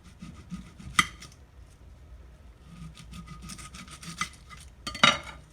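Kitchen knife cutting a red onion on a cutting board: two sharp knocks of the blade on the board, about a second in and near the end, with scratchy sawing and rubbing of the knife through the onion between them.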